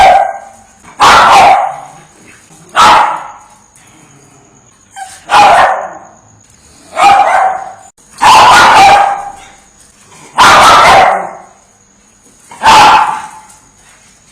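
A dog barking: about eight loud, single barks, one every one and a half to two seconds, with quiet gaps between them.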